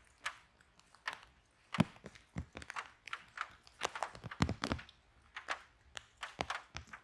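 Wood fire in a fireplace crackling, with irregular sharp pops and snaps and a few louder cracks.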